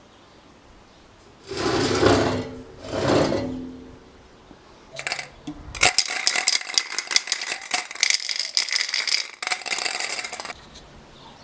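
Two short scraping sounds, then about five seconds of dense, clattering rattle of hard objects.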